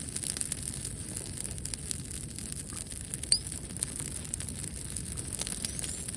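Wood bonfire burning with a low rumble of flame and many small crackles and pops, one sharper pop a little past the middle.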